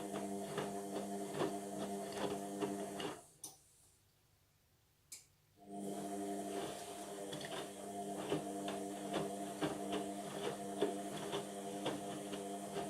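Indesit washing machine tumbling its wash: a steady motor hum with irregular light clicks from the load in the drum. It stops for about two and a half seconds, one click sounding in the pause, then starts again, the drum resting between turns during the wash.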